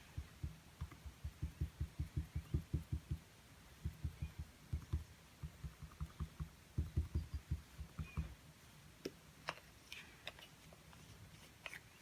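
Dull taps on a small painting canvas, rapid at about five a second, in three runs, as paint is dabbed on with a brush. A few sharper, thinner clicks follow near the end.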